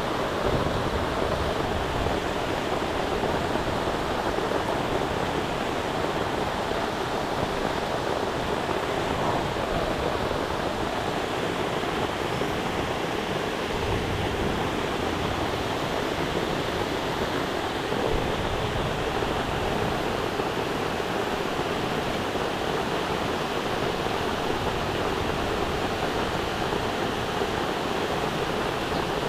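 Steady rush of a waterfall's falling water, an even noise with no breaks.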